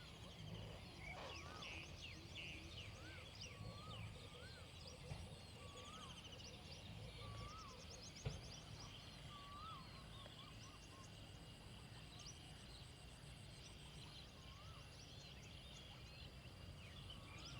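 Faint rural outdoor ambience: several birds chirping, one repeating a short rise-and-fall call every second or so, over a steady high insect drone.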